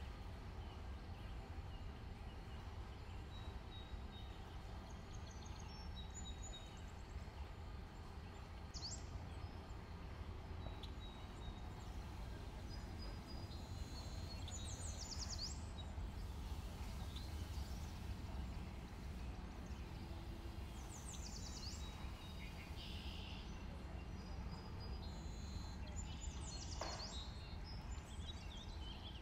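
Birds chirping now and then in short, high calls, over a steady low hum.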